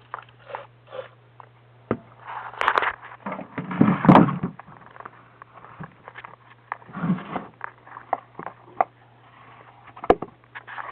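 Scattered knocks and sharp clicks mixed with short rustling noises, the loudest about four seconds in, over a steady low electrical hum.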